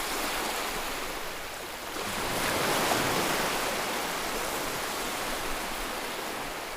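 Steady rushing noise with no distinct tones, swelling about two seconds in and slowly easing off.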